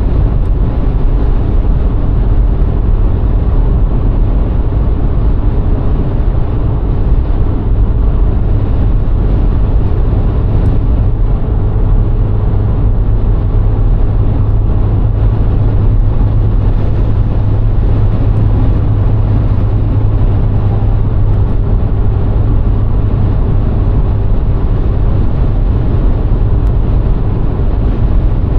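VW Golf IV's 1.6 petrol four-cylinder engine and road noise while driving at a steady pace: a continuous low drone with tyre rumble. The engine drone grows stronger for several seconds in the middle.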